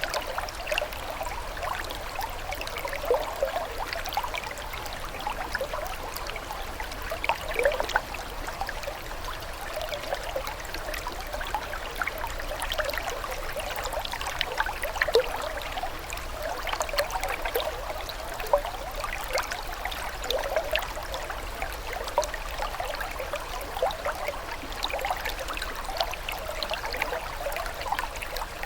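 Water flowing and trickling steadily, with many small bubbling gurgles.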